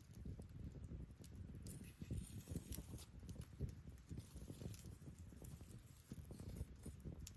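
Campfire crackling: burning wood gives irregular sharp pops and snaps over a low, steady rumble of the flames.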